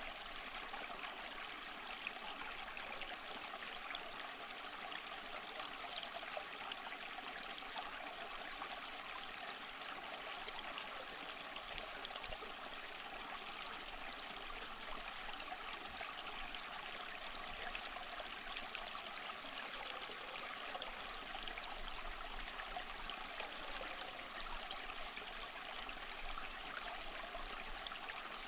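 Running water, a steady splashing rush with little bass that does not change.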